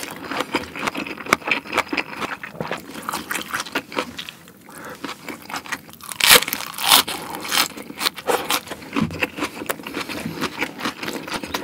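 Close-miked chewing with wet mouth clicks; about six seconds in, a bite into a crisp napa cabbage leaf wrap gives the loudest crunches, which go on as it is chewed.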